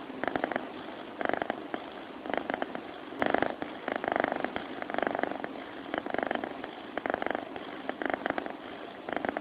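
A sleeping cat makes a rattling purr-like rumble with each breath, about once a second. There is a brief click about three seconds in.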